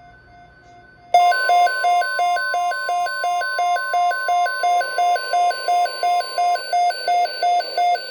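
NOAA weather radio alert for a tornado watch: a loud pulsing electronic beep, about three beeps a second, starts about a second in. Under it runs the steady 1050 Hz warning alarm tone, which stops well before the beeping does.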